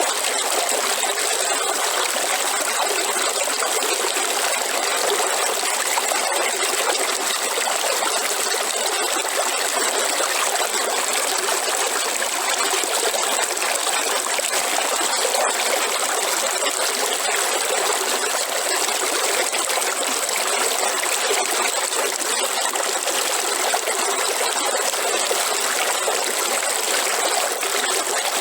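River water flowing and trickling steadily, an even rushing with no breaks, with a thin steady high-pitched tone above it.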